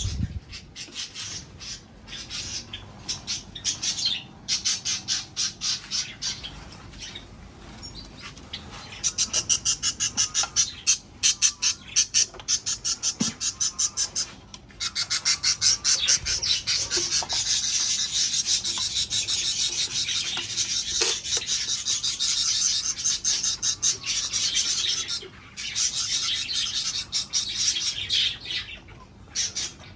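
Birds in an aviary calling: rapid, repeated high-pitched squawks and chatter in quick pulsing runs, becoming almost unbroken about halfway through.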